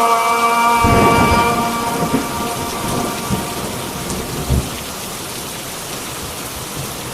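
A muezzin's held sung note from the call to prayer fades out in the first second or two. Steady heavy rain follows, with deep rumbles of thunder through the first half.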